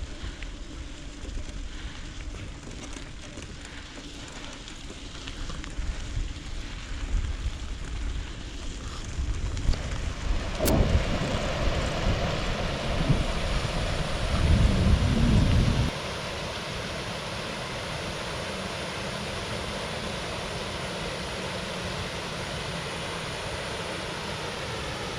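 Wind buffeting the microphone outdoors, a rumbling noise that grows heavier after about ten seconds. About two-thirds of the way in it cuts abruptly to a steady, even hiss.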